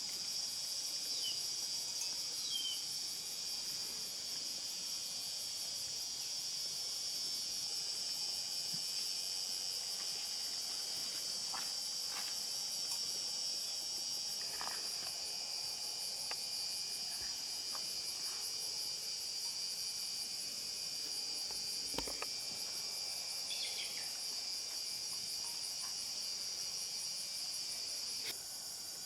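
Steady chorus of insects, a shrill high-pitched buzzing with a fine pulsing texture, with a few short bird chirps and occasional light knocks.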